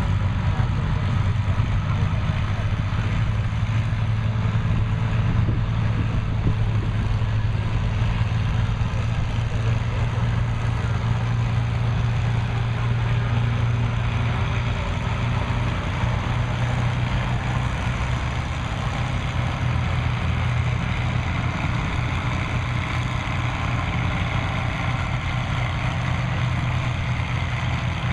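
Farm stock pulling tractor's engine running hard and steady under load, a low continuous drone that eases a little about halfway through.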